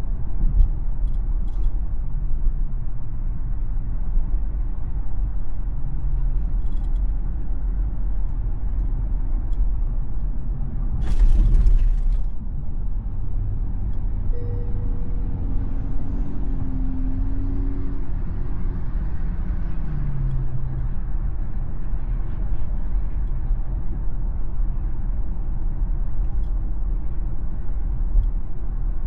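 Steady road and tyre rumble of a Tesla driving on Full Self-Driving, with a brief louder rushing sound about eleven seconds in.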